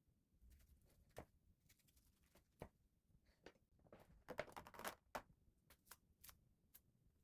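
Scattered soft clicks and taps, with a brief denser rustle about four to five seconds in: small handling sounds of food and kitchenware.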